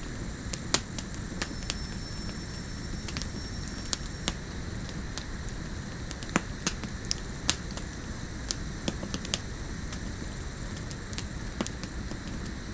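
Campfire crackling, with irregular sharp pops and snaps over a steady background hiss.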